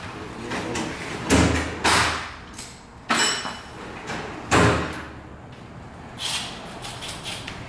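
Metal car-body parts being handled and knocked together: four loud thuds and clanks, one of them ringing briefly like struck sheet metal, then a lighter knock near the end.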